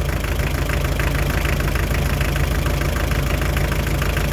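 Hyundai Terracan's 2.5-litre D4BH four-cylinder turbodiesel idling steadily with a knock, which the mechanic traces to a dribbling, leaking fourth injector.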